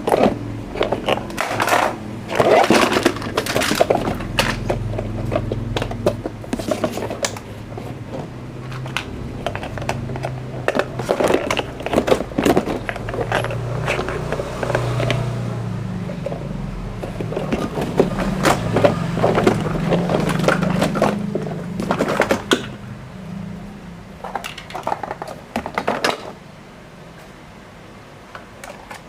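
Hard plastic toys clattering and rattling against each other as they are handled, with many sharp clicks and knocks over a low, wavering hum that stops near the end.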